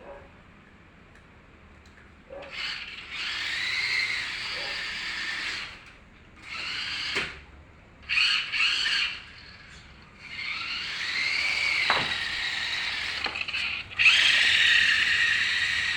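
RC drift car driving in repeated bursts, a high-pitched sound that rises and falls with each run, some lasting a second and others three or four seconds.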